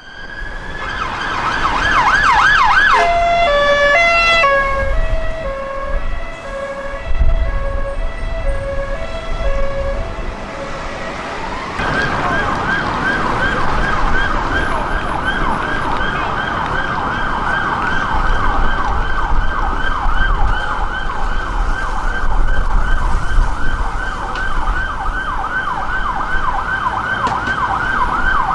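UK emergency vehicle sirens passing in traffic: a fast yelp, switching about three seconds in to a slow two-tone hi-lo that alternates for several seconds, then rising again about twelve seconds in into a rapid yelp that continues. Engine and traffic rumble sits underneath.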